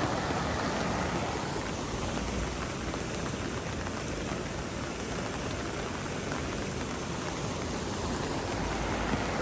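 Steady rainfall: an even, constant hiss of rain coming down.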